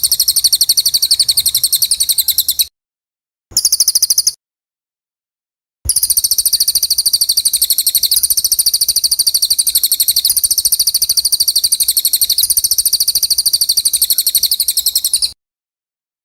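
A songbird's rapid-fire trill of sharp, very high repeated notes, many to the second: a 'tembakan' phrase used as tutor song for training caged songbirds. It comes in three runs that cut off and restart abruptly, the longest lasting about nine seconds.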